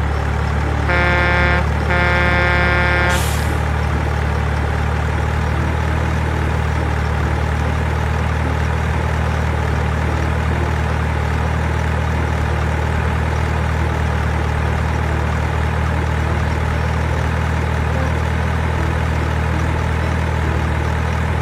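Truck engine idling with a steady low rumble, with two truck air-horn blasts about a second and two seconds in.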